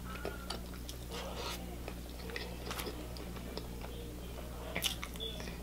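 Close-miked chewing of a sauce-dipped hard-boiled egg: soft wet mouth clicks and smacks scattered throughout, a little stronger about five seconds in, over a steady low hum.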